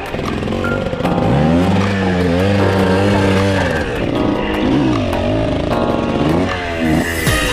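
Dirt bike engine revving, its pitch rising and falling again and again as the throttle is opened and closed.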